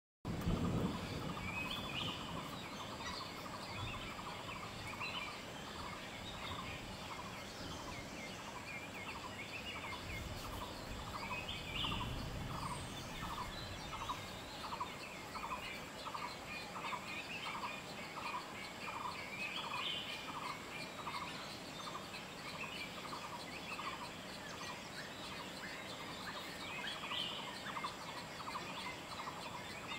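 Forest birdsong: one bird repeats a short note steadily, about one and a half times a second, while other birds give brief chattering calls every several seconds.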